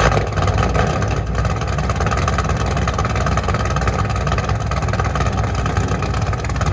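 LS-swapped V8 of a Chevrolet Camaro SS idling through long tube headers, high-flow cats, an X-pipe and straight 3-inch pipes. A loud, steady, deep idle that comes in suddenly at the start, with no revving.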